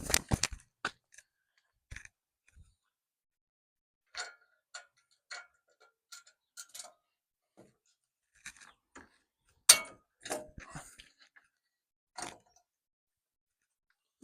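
Scattered metal clicks and clinks of hand tools and bolt hardware being worked into a steel bumper mount: a quick cluster at the start, irregular single ticks, and one sharp, loud clink about two-thirds of the way in.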